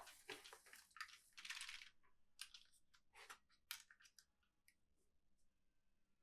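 Toys and plastic packaging being handled: faint rustling and a scatter of light clicks and taps for about four seconds, then near silence.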